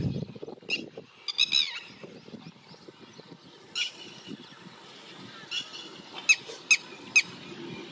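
Red-wattled lapwing calling: sharp, short, high notes, a quick run of several about a second and a half in, then single and paired notes spaced through the rest, over a faint outdoor background.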